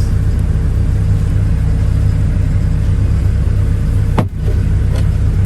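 Case CX57C mini excavator's diesel engine idling steadily, a low rumble heard from inside the cab. A brief click and dip in the sound about four seconds in.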